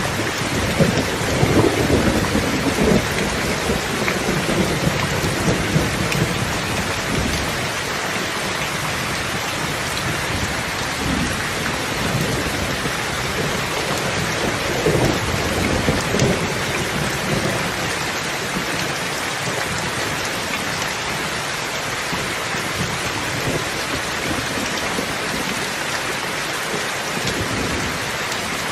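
Steady rain falling, with rolling thunder: a long low rumble in the first several seconds and another near the middle, then rain alone.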